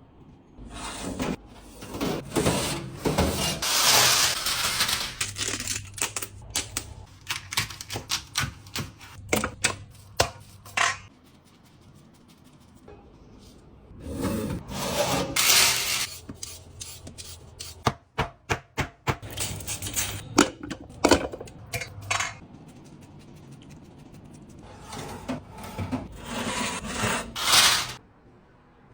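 Food being prepared by hand: repeated bursts of scraping and rubbing, with clusters of sharp taps and clicks, in irregular spells with short pauses between them.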